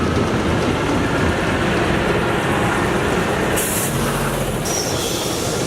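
Heavy truck engines running steadily, with a short hiss of air, like an air brake, about three and a half seconds in.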